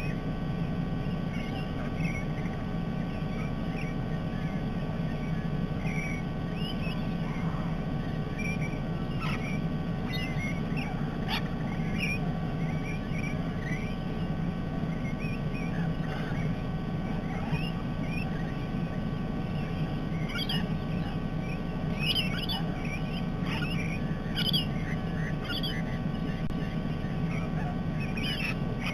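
Many short, high chirps and squawks from a flock of parrots, scattered throughout and busier in the second half, over a steady low background rumble.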